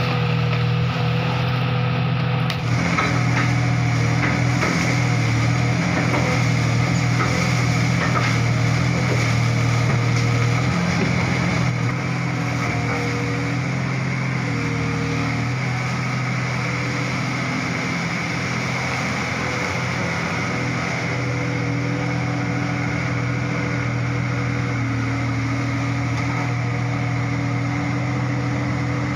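Komatsu PC200-5 excavator's diesel engine running steadily under working load, with scattered knocks over the first dozen seconds; the engine eases off slightly about twelve seconds in.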